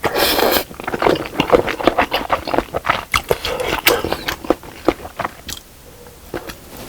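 Close-miked eating sounds from a bowl of spicy fish cake and rice cake soup. A short noisy burst at the start is followed by rapid wet chewing clicks and smacks, which die down about a second before the end.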